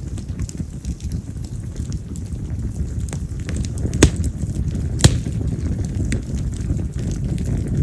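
Split yamazakura (wild cherry) firewood burning in a bonfire: scattered small crackles over a steady low rumble, with two sharp, loud pops about four and five seconds in.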